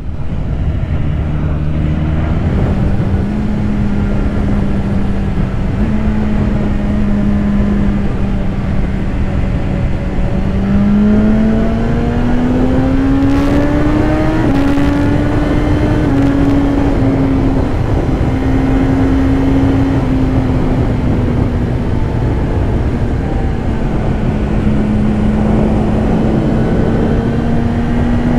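BMW S1000RR inline-four engine running on the road under heavy wind noise. The engine note holds steady, then climbs for a few seconds about ten seconds in as the bike accelerates, and settles again.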